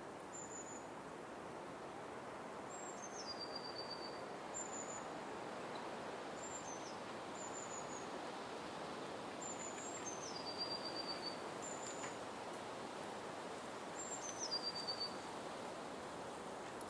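Forest ambience: a small bird repeating short, high, thin calls about eight times, several of them stepping down into a brief falling trill, over a steady background hiss.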